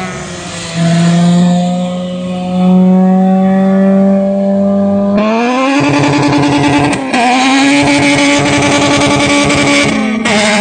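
Honda K20 inline-four engine accelerating hard, its revs climbing steadily. About five seconds in the pitch jumps up and the sound turns harsher and raspier. The revs dip briefly about seven seconds in and again near the end, then pick up again.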